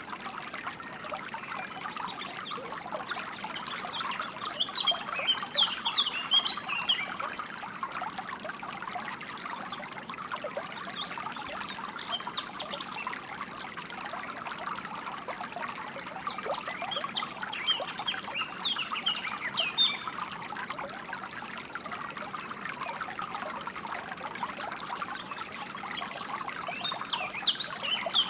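Small stream trickling and babbling steadily over stones, with songbirds chirping in short spells of quick high notes about four times.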